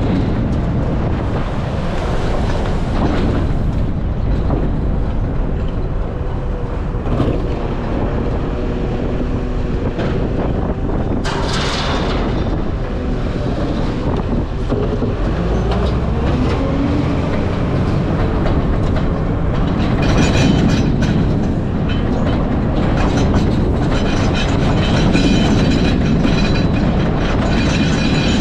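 Garbage truck running: a steady, heavy rumble of engine and road noise with continuous rattling. Its engine note rises about halfway through, and a high whine comes in near the end.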